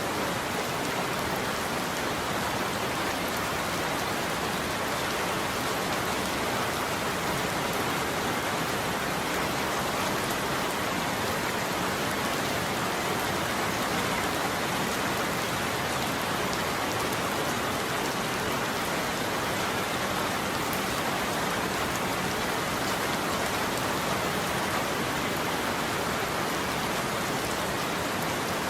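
Steady heavy rain falling on a roof, an even hiss of drops with no thunder clap standing out.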